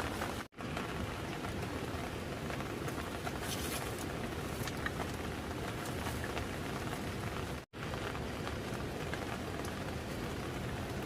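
Steady rain falling and pattering on surfaces, an even hiss with no pitched sound. Twice the sound drops out for an instant.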